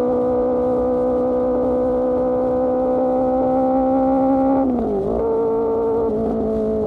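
Sportbike engine running through an Austin Racing GP1R aftermarket exhaust at steady cruising revs that creep slowly upward. About five seconds in the revs dip briefly, then hold steady at a slightly lower pitch.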